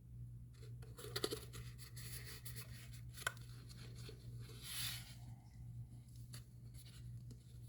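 Cardstock pieces being handled and positioned on a work surface: faint paper rustles and a few small taps and ticks, over a low steady hum.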